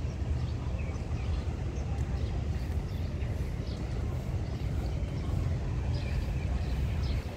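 Passenger train coaches rolling slowly past a platform as the train arrives, giving a steady low rumble.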